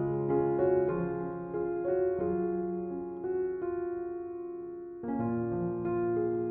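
Slow, gentle piano music of held notes and chords that die away over a few seconds, with a new chord struck about five seconds in.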